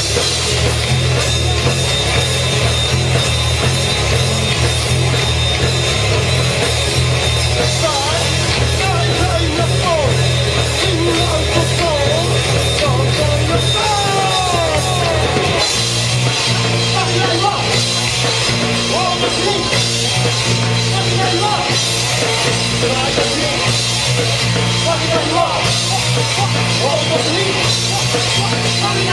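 Rock band playing live and loud, with drum kit and a steady bass line that shifts to a new pattern about halfway through.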